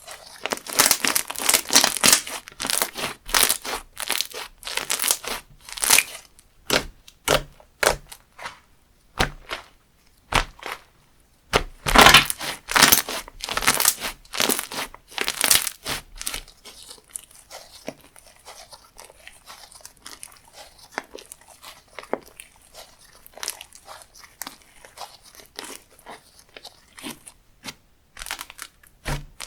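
Hands squeezing, stretching and pressing a textured slime, giving dense crackling and popping. The crackles come thickest in the first six seconds and again about twelve seconds in, then thin to scattered pops.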